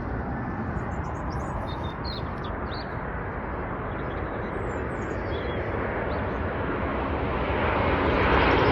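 Airbus A350 airliner on approach to land, the noise of its Rolls-Royce Trent XWB engines growing steadily louder as it comes closer, loudest near the end. A bird chirps faintly a few times.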